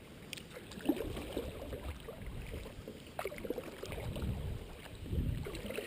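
Kayaking on a river: scattered light knocks and soft water sounds from the kayak and paddle, over a low rumble.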